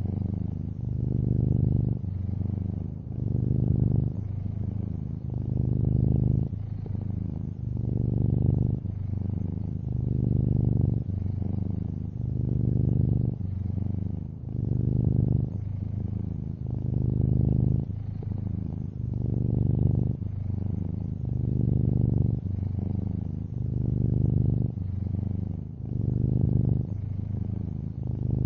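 Long-haired orange tabby cat purring, a deep purr that swells and eases in a steady cycle about every two seconds as the cat breathes in and out.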